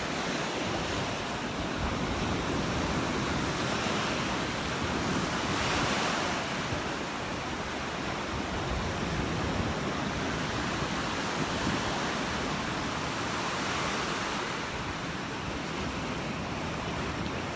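Ocean surf breaking and washing up the beach, a continuous rush that swells louder a few times, with some wind on the microphone.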